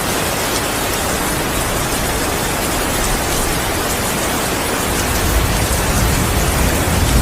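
Steady heavy rain hissing, with a low rumble of thunder starting to build about five seconds in.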